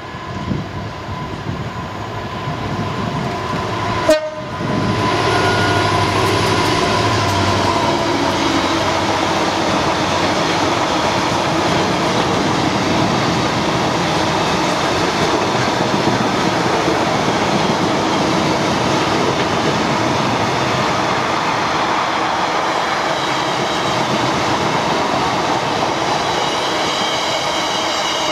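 Class 59 diesel locomotive, its EMD two-stroke V16 engine, approaching and passing, with a sharp click about four seconds in. A long rake of aggregate hopper wagons then rolls past with steady, loud wheel-on-rail clatter, and a faint high wheel squeal comes in near the end.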